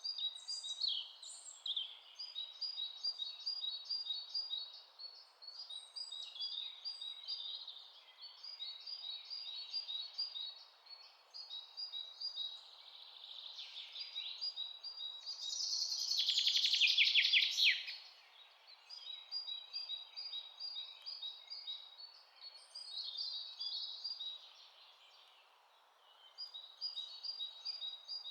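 Songbirds chirping in quick, repeated high notes, with a louder, denser trill just past the middle, over a steady soft hiss.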